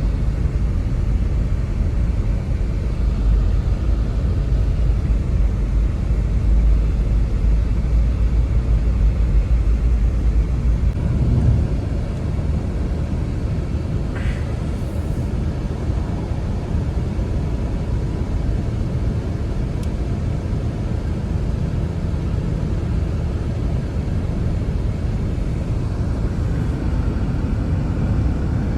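Steady blizzard wind with a deep rumble of wind on the microphone; the low rumble eases about eleven seconds in.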